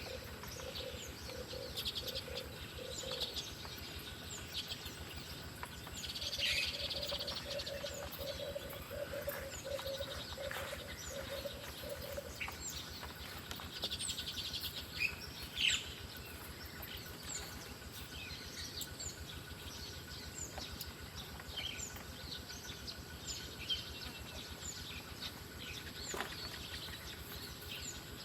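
Wild birds chirping and calling with short, high notes scattered throughout. A low pulsed trill runs during the first few seconds and again from about six to twelve seconds in.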